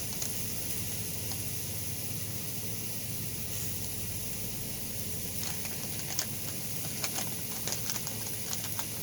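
Sliced zucchini and squash frying in hot olive oil in a pan, a steady sizzle, with scattered pops and crackles in the second half.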